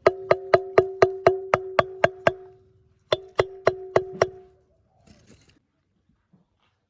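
Repeated ringing strikes on a metal object, about four a second, each leaving the same steady ring. About ten strikes, a short pause, then six more.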